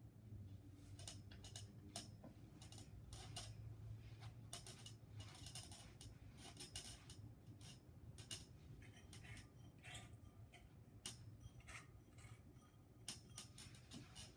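Faint, irregular clicks and light scraping as light bulbs are screwed back into the sockets of a Harbor Breeze Centreville ceiling fan's light kit, over a low, steady hum.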